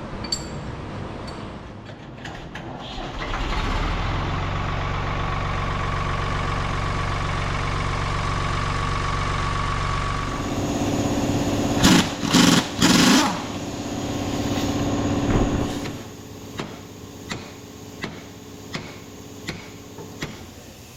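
An engine runs steadily for about seven seconds. Then a different mechanical sound follows with three short, loud bursts close together, and then a series of evenly spaced clicks, under a second apart.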